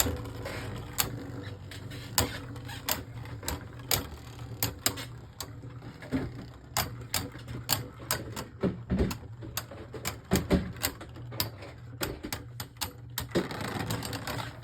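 Beyblade Burst spinning tops battling in a plastic stadium: a steady whirring hum with many irregular sharp clicks and clacks as the tops knock into each other.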